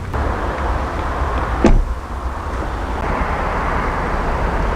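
A car door of a Mercedes-AMG CLA45 shutting once, a single sharp knock about a second and a half in, over a steady low rumble.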